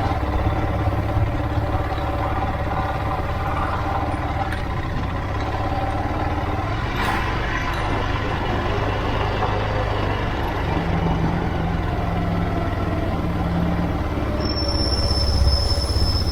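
Motorcycle engine running steadily while riding, over a continuous low rumble. A high, thin steady tone comes in near the end.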